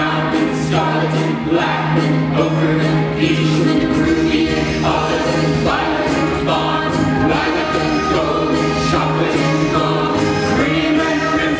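Musical-theatre ensemble singing together over an instrumental accompaniment.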